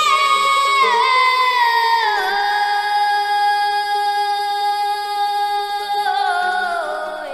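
Haicai qiang folk singing: a very high female voice holds one long note, stepping down in pitch about one and two seconds in, then falling further near the end. A lower sustained voice or drone holds underneath.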